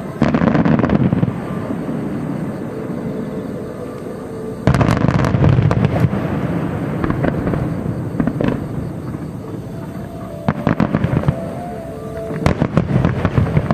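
Aerial firework shells bursting overhead: four heavy booms, each with a long rumbling echo, with bursts of rapid crackling between and after them.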